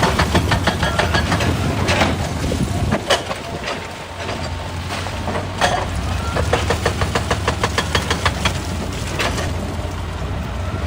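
Excavator's diesel engine running steadily, with two runs of rapid clicking, about six clicks a second: one near the start and one past the middle, with a few single knocks between.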